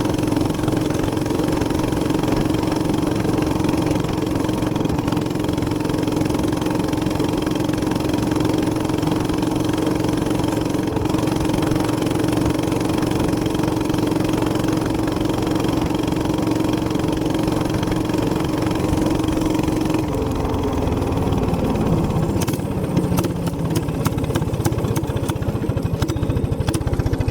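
Gas minibike engine running steadily at one speed. About twenty seconds in, its pitch drops and slides down as it slows, then irregular rattling and clicking take over near the end.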